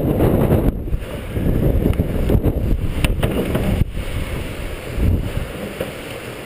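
Strong gusty wind buffeting the microphone, a heavy rumble that rises and falls. A few faint ticks sound about three to four seconds in.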